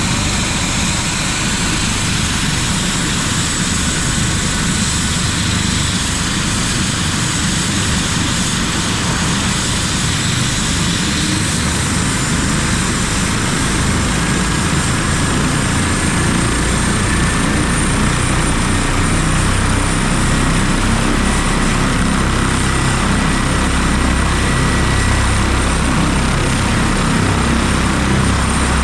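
Helicopter running steadily in flight, its rotor and engine noise mixed with a high whine that rises slightly in pitch about halfway through.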